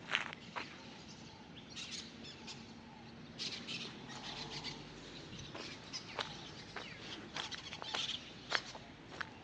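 Birds chirping in short bursts over a steady outdoor hiss, with scattered sharp clicks.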